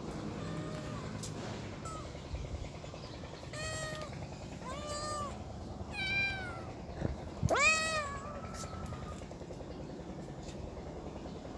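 Domestic cats meowing, several separate meows that rise and fall in pitch, the loudest about two-thirds of the way through.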